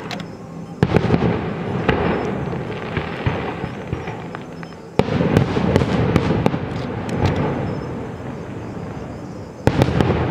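Fireworks display: three loud volleys of bursting shells, about four to five seconds apart, each starting suddenly and trailing off into dense crackling.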